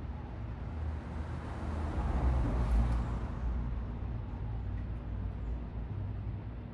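A motor vehicle passing on a street, its noise swelling to a peak about three seconds in and then fading, over a steady low traffic rumble.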